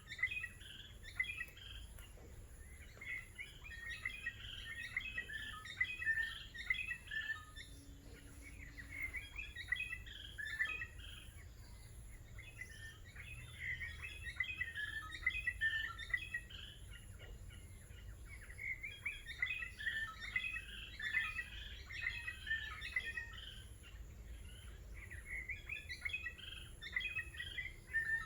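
A songbird singing in repeated phrases of rapid chattering notes, each a few seconds long, separated by short pauses.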